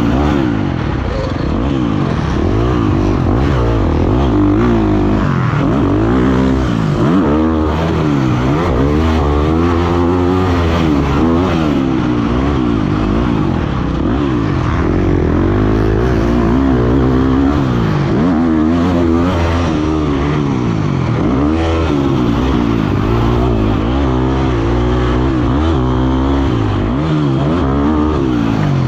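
Motocross dirt bike engine revving up and down over and over, its pitch rising and falling as the rider works the throttle and gears around the track.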